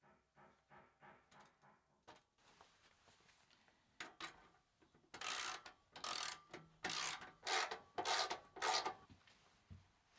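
A hand tool worked in rasping strokes: a run of light, quick strokes at first, then about six loud strokes a little over half a second apart in the second half.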